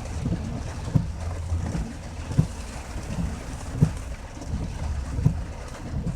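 Heavy rain on a moving car, heard from inside, with a steady low road rumble under it. The windshield wipers sweep with a short low thump about every one and a half seconds.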